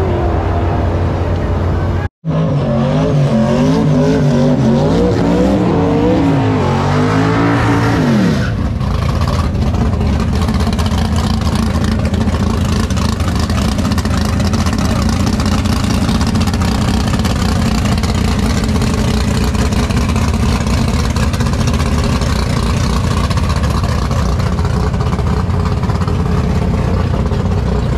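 A drag car's engine revving up and down repeatedly for several seconds, then falling back and running steadily and loudly.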